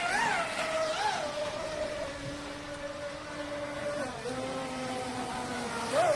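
Electric RC speedboat, a Traxxas Spartan, with its brushless motor running as a steady whine. The pitch swoops up briefly twice in the first second as the throttle is blipped, falls a little about four seconds in, and swoops up twice more near the end.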